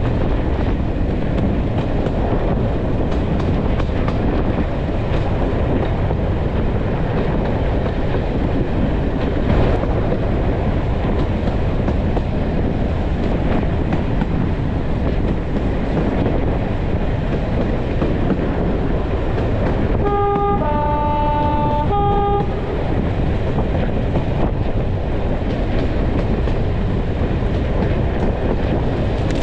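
Heritage diesel train running, heard from an open carriage window: a steady rumble and clatter of wheels on the track. About twenty seconds in, the locomotive's horn sounds for about two seconds, stepping from a higher note to a lower one and back.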